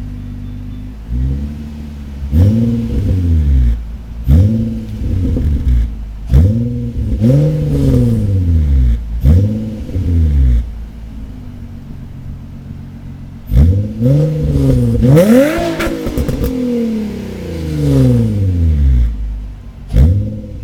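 Nissan 350Z's 3.5-litre V6 being blipped repeatedly at a standstill, each rev climbing quickly and falling back to idle, about eight times. It settles at idle for a few seconds in the middle before the highest, longest rev.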